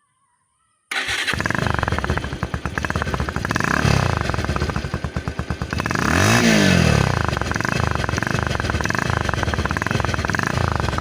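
Bajaj Pulsar 150 single-cylinder engine running through its stock silencer with an Axe body-spray cap fitted in it to make it sound louder. The sound comes in abruptly about a second in, rises briefly, then the throttle is blipped once in a rising and falling rev about six seconds in before it settles back to a steady run.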